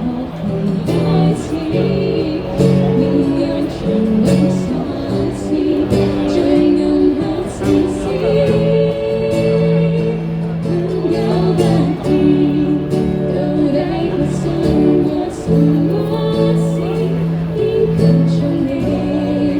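A live band playing a song: a vocalist singing over guitar accompaniment, with held sung notes and steady strumming.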